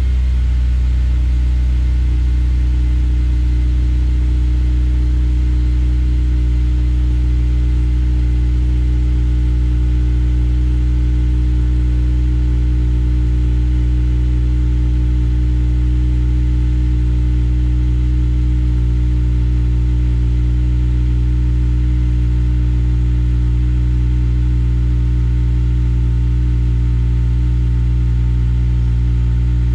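Honda Accord Euro R (CL7) K20A inline-four idling steadily just after start-up, heard through a Mugen exhaust manifold and Mugen muffler. The idle holds an even, unchanging pitch.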